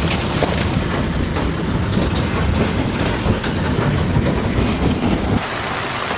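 Wind-driven hail and rain pelting down, a dense clatter of many small impacts over a heavy rumble of wind on the microphone. The wind rumble drops away about five and a half seconds in while the pelting goes on.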